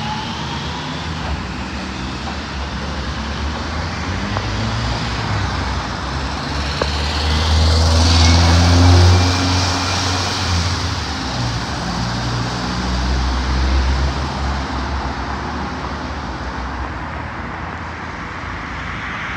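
Steam-hauled passenger train (BR Standard Class 4 tank 80078 with maroon coaches) running away down the line past the level crossing: a steady rumble and rush of the train on the track, swelling about eight seconds in, then slowly fading.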